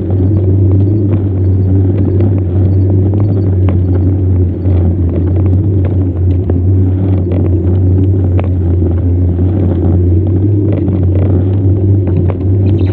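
Steady, loud low rumble with scattered clicks and rattles: wind and road noise on the microphone of a bicycle being ridden.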